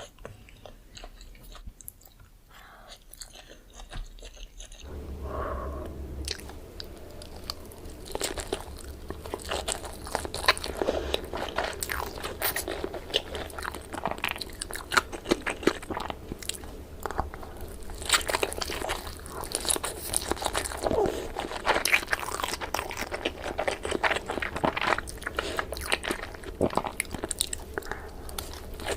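Close-miked eating of sushi: chewing and biting with many small clicks and crunches. Sparse for the first few seconds, then busier, with a low steady hum underneath from about five seconds in.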